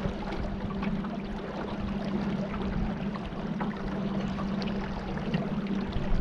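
Small boat's motor running with a steady hum, over water rushing and splashing along the hull.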